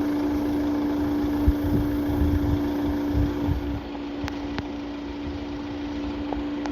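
Vehicle engine running at a steady, low speed with a constant hum, and a low rumble and irregular thumps that ease a little before the middle.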